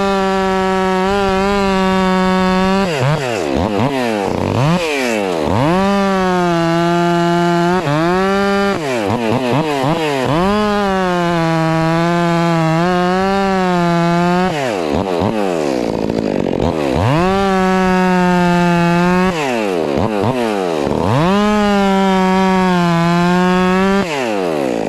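Two-stroke chainsaw cutting firewood logs at full throttle in five long stretches, its pitch sagging a little under load. Between cuts the revs drop sharply toward idle and climb back.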